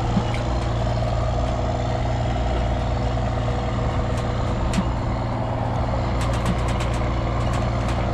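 Tractor engine idling steadily, with a few faint clicks in the second half.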